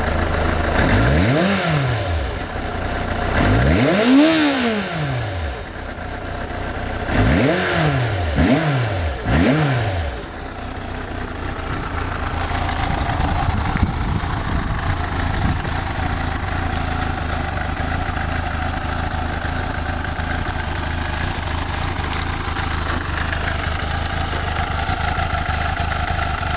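1993 Yamaha YZF750's inline-four engine idling and blipped five times. The second rise is the longest and highest, and the last three come in quick succession. After about ten seconds it settles back to a steady idle.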